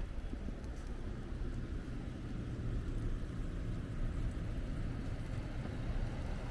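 Steady low rumble of street traffic, cars running along a snowy city street.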